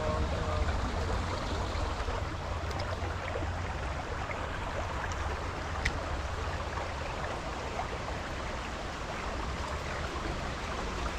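Swollen, fast-flowing creek water rushing steadily, with a low rumble underneath. One sharp click about six seconds in.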